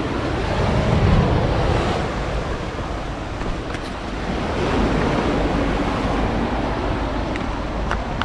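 Sea waves washing on the shore in a steady wash, with wind rumbling on the microphone.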